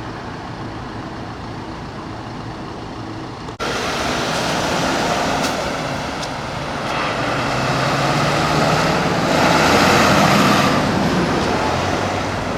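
Heavy trucks driving out one after another, engines running and swelling louder as a truck passes close. The sound jumps abruptly to a louder level a little over three seconds in.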